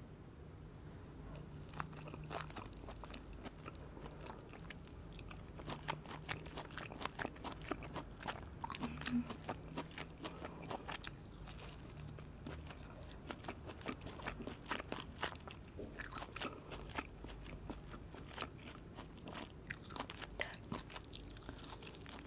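Close-miked chewing of sauce-coated pieces of sirloin steak, with many short, wet mouth clicks and smacks that come thicker from about two seconds in.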